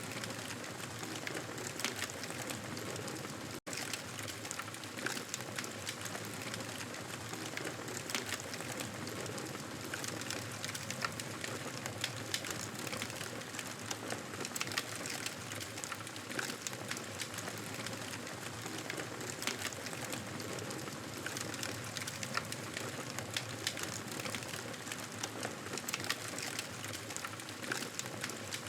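Fireplace fire crackling: a steady hiss dotted with frequent small irregular pops, with a momentary dropout about three and a half seconds in.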